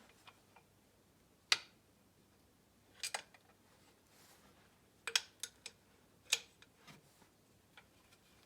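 About half a dozen short, sharp metallic clicks and clinks, spaced a second or more apart, as metal parts of the snowmobile's gearbox and chain case are handled.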